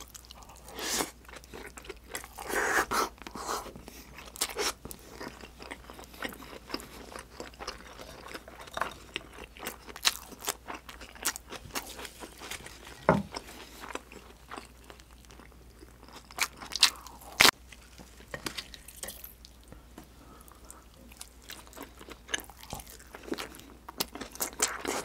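Close-miked chewing of a mouthful of sauced grilled freshwater eel and rice, wet mouth sounds with irregular sharp clicks, the loudest a little past halfway.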